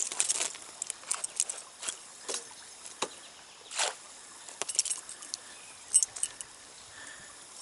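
A netted trout being handled in a landing net: irregular rustles, clicks and small splashes.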